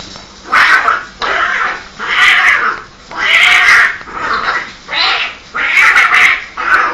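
Cats fighting: a run of loud screeching yowls, about one a second.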